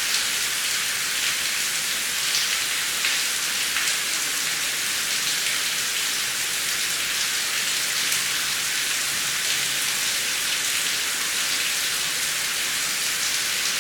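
Heavy rain falling steadily: a dense, even hiss with the faint crackle of individual drops, and no thunder.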